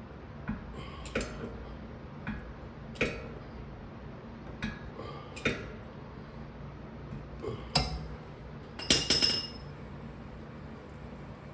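Scattered sharp metal clinks and taps of hand tools and parts being handled, with a quick run of several clinks about nine seconds in, over a low steady hum.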